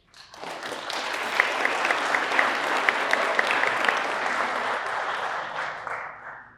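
An audience applauding, building quickly, holding for about five seconds, then dying away near the end.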